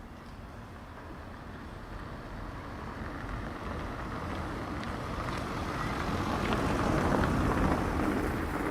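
A car approaching along a street, its engine and tyre noise growing steadily louder and coming closest near the end.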